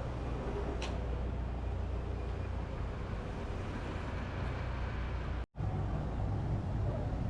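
Steady street traffic noise with a low rumble of passing vehicles. It cuts out for an instant about five and a half seconds in.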